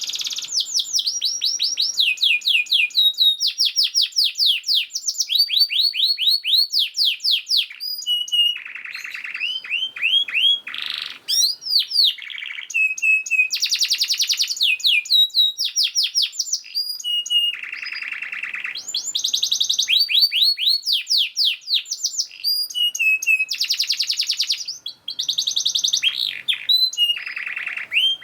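Domestic canary singing a fast, dense song. It switches every second or so between rapid rolls of repeated sweeping notes and buzzy trills, with barely a pause.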